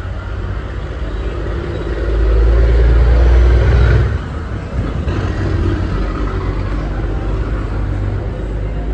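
Low rumble of a motor vehicle ride, engine and road noise. It grows louder for a couple of seconds about two seconds in, then settles to a steady rumble.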